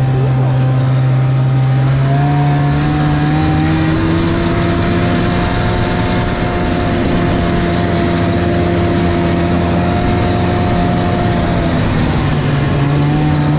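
Snowmobile engine running, revving up about two seconds in and holding a steady higher pitch while riding, then easing back to a lower pitch near the end.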